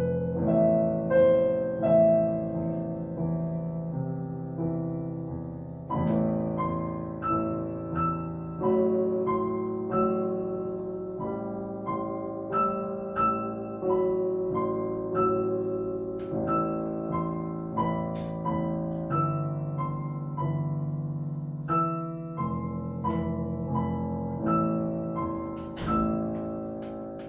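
Solo piano playing a slow, evenly paced piece, single notes and chords struck about once a second, each ringing and dying away.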